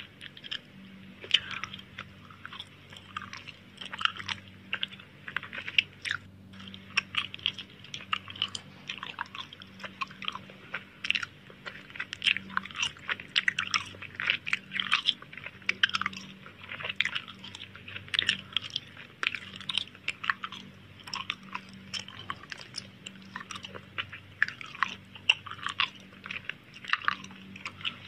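Close-miked ASMR chewing and biting of food, a dense, irregular run of short sharp crackles.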